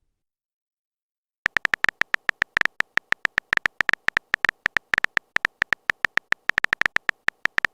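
Message-typing sound effect: a rapid, uneven run of short, high electronic beeps, several a second, starting about a second and a half in.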